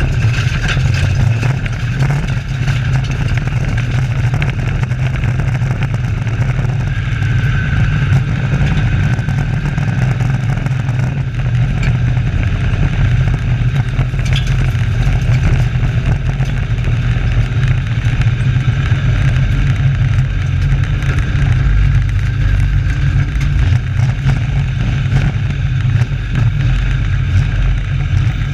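Race trucks' engines running on a short oval track, a steady loud drone throughout.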